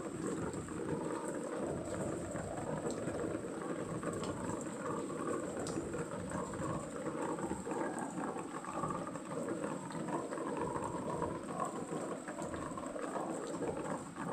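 Steady rain falling, a dense patter with scattered sharper drop hits.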